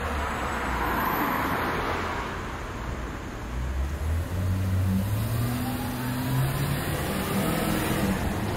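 Street traffic: a motor vehicle's engine running, rising in pitch as it accelerates from about four seconds in.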